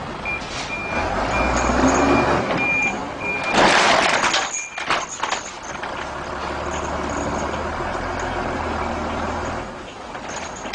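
Truck engine running with its reversing alarm giving short, evenly spaced high beeps. About three and a half seconds in, a loud rush of noise lasts about a second, followed by a few sharp knocks, then the engine hum carries on and the beeping returns near the end.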